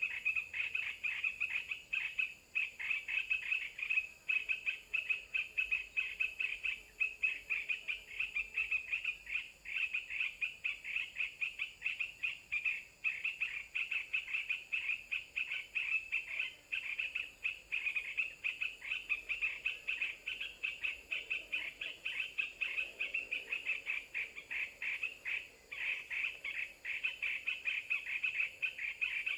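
Continuous chorus of rapid, high-pitched chirping animal calls, pulsing a few times a second.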